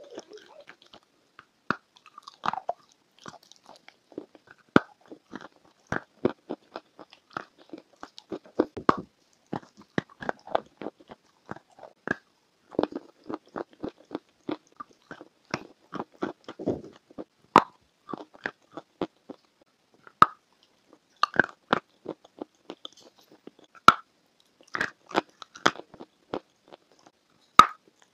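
Close-miked biting and chewing of crumbly white chunks: an irregular run of crisp crunches, with a few sharper, louder bites.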